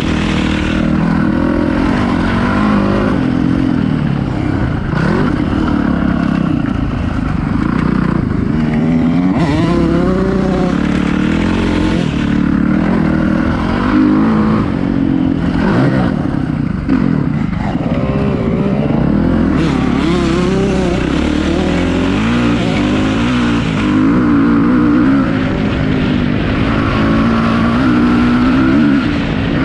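Motocross dirt bike engine revving up and down continually as it is ridden hard, the pitch rising and falling with each throttle change and shift.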